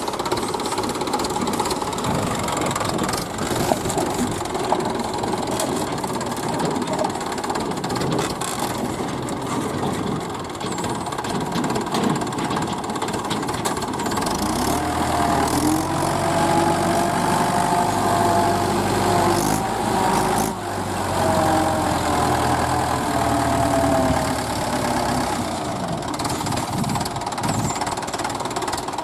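Diesel engine of a working farm machine running steadily. Over the second half its pitch rises and falls several times as it is revved and loaded.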